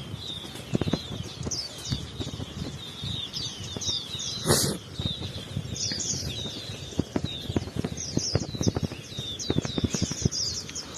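Many small birds chirping and twittering without pause in quick, high, falling notes, over a run of irregular low thumps. A louder sharp sound cuts across about four and a half seconds in.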